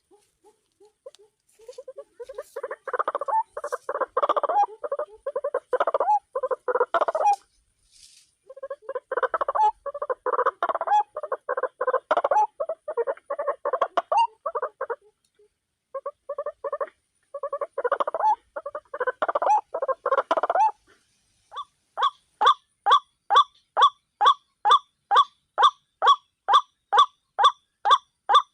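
White-breasted waterhen (ruak-ruak) calling: three loud bouts of fast, harsh croaking chatter with short breaks. About three quarters of the way in, these settle into a steady run of evenly spaced calls, nearly three a second.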